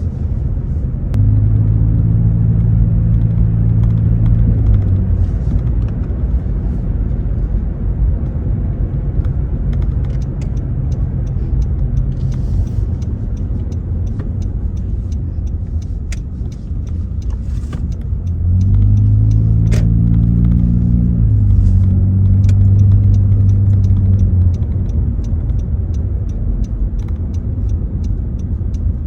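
Cabin sound of a 2017 Honda Accord LX's four-cylinder engine with the muffler deleted and the resonators kept, over steady road rumble with the windows up. The exhaust tone swells twice as the car pulls, about a second in and again about two-thirds of the way through, with its pitch stepping up during the second pull, and eases back between.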